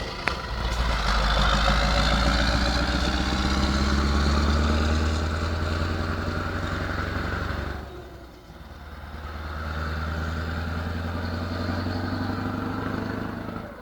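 Scania 144-530's V8 diesel with straight-piped exhaust pulling under load, its pitch climbing slowly; about eight seconds in it drops off, as at a gear change, then pulls and climbs again before falling away near the end.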